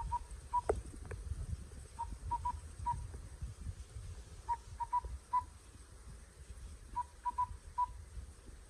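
Short whistled notes at one steady pitch, in groups of three or four repeated every couple of seconds: a decoy bird call sounded to lure birds in.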